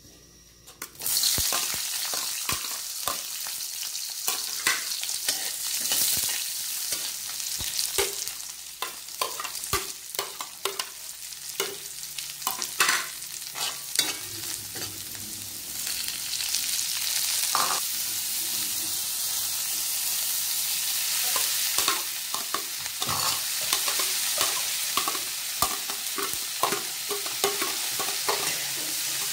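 Sliced onion and garlic frying in hot oil in an aluminium wok: a steady sizzle that starts about a second in, with a metal ladle scraping and clinking against the pan throughout.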